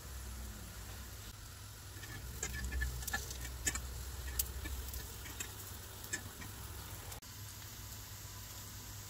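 Breaded tuna kababs sizzling on a nonstick grill pan, with a fork tapping and clicking against the pan as they are turned over, a run of sharp clicks between about two and six seconds in. A steady low hum runs underneath.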